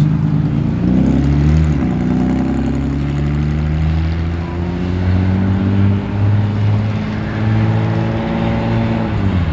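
A car engine pulling away under load. The revs rise briefly, dip about two seconds in, then climb slowly and steadily for most of the stretch before falling off near the end.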